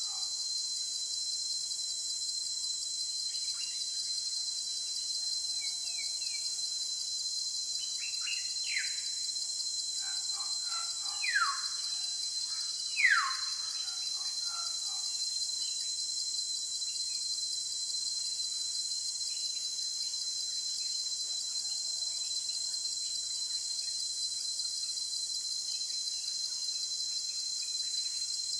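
A steady, high-pitched drone of insects, with birds giving several short calls that sweep downward in pitch. The two loudest calls come about eleven and thirteen seconds in.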